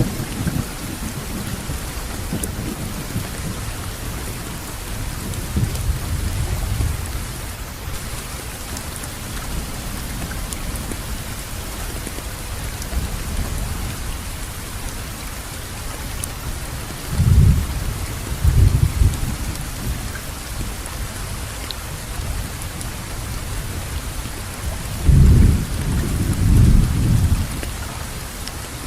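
Steady heavy rain falling, with low rolling thunder rumbling under it; two louder thunder rolls come a little past the middle and again near the end.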